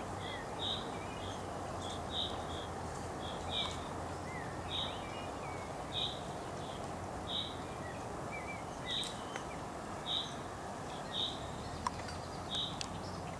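A bird repeating a short, high call note about every second and a half, with fainter chirps from other birds, over a steady hiss of background noise.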